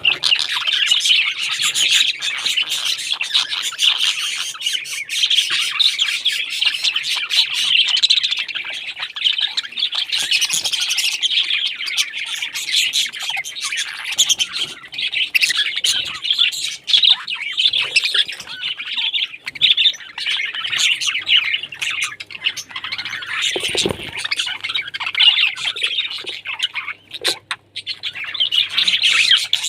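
Many parrots chattering and squawking together, with dense, overlapping calls that never stop.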